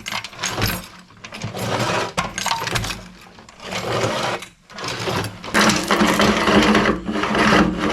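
A length of chain rattling and scraping inside a steel motorcycle gas tank as the tank is shaken and tilted back and forth, a dense metallic clatter used to knock loose rust from the tank's inner walls.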